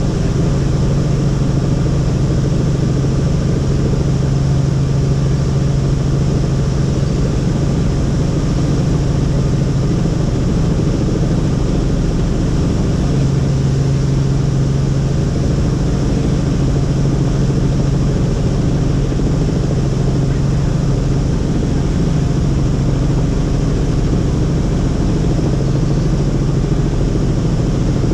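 Helicopter running steadily: a loud, even drone with a strong low hum and no change in pitch.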